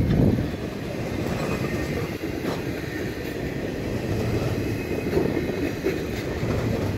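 Double-stack intermodal freight cars rolling past on the rails with a steady rumble and rattle. It drops a little in loudness just after the start as the cars move away, then holds steady.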